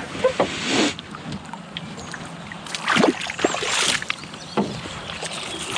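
Kayak and paddle in the water: two rushing splashes, one at the start and one about three seconds in, with a few light knocks against the hull.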